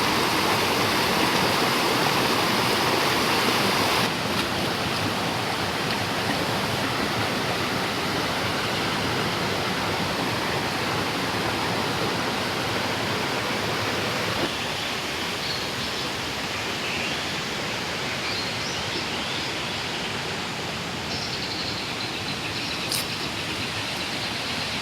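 Steady rushing noise, like running water or an outdoor hiss, with faint high chirps in the second half and a single click near the end.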